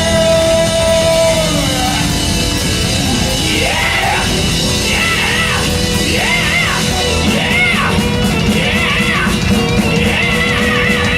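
Live hard rock band playing loud, with a held high note at first and then, from about three and a half seconds in, a high lead line of quick arching, bending notes over the band.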